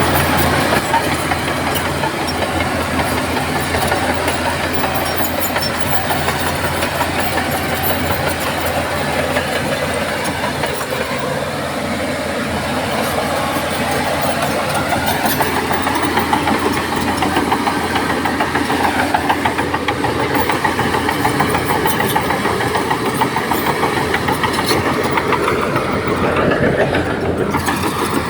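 Crawler bulldozer's diesel engine running steadily and loudly.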